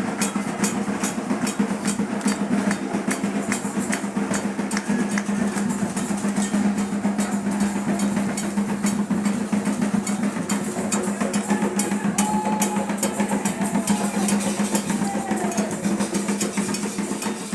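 Candomblé atabaque hand drums playing a fast, continuous rhythm.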